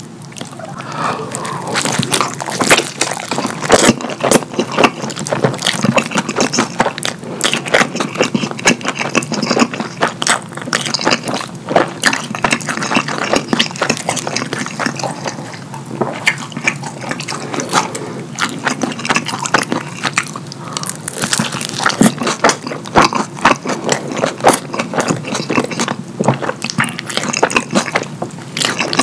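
Close-miked wet chewing of cheesy pizza dipped in cheese sauce: a dense, unbroken run of sticky clicks and mouth smacks.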